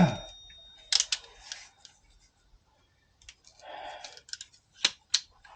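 Scattered sharp clicks and clinks of hand tools and metal parts being handled: a few single clicks about a second in, a short rustle, then two sharp clicks near the end.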